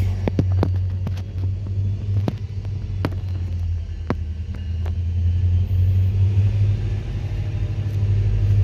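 Diesel locomotive of an approaching freight train, running with a steady low rumble and an even hum. A few sharp, irregular ticks sound over it in the first half.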